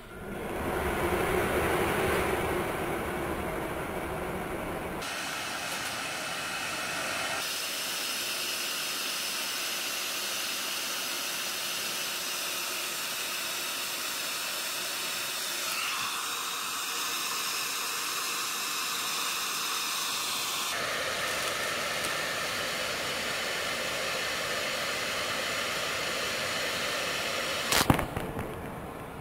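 Hair dryer blowing steadily, its tone shifting abruptly several times, with one sharp click near the end.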